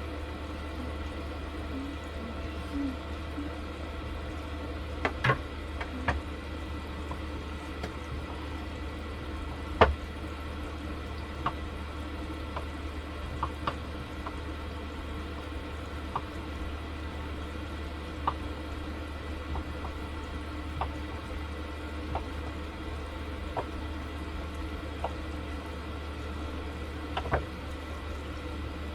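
Liquid bubbling over a steady low hum, with scattered small clicks and a sharper knock about ten seconds in.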